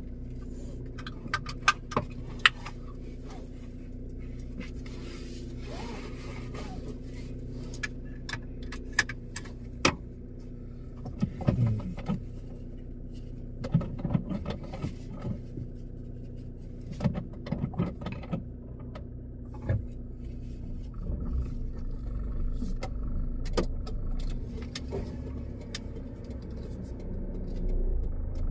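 Car engine running steadily, heard from inside the cabin, with scattered sharp clicks and knocks. A low rumble grows louder near the end.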